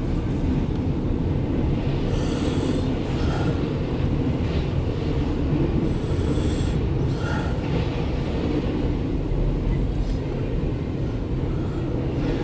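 CSX intermodal freight train rolling past on the rails: a steady low rumble with a few brief, faint higher-pitched sounds.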